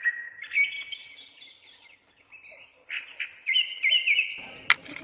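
Small birds chirping in short twittering phrases, with a pause of about a second and a half in the middle. A sharp click sounds near the end.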